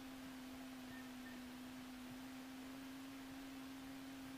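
A faint, steady tone at one low pitch over a light hiss, unchanging throughout.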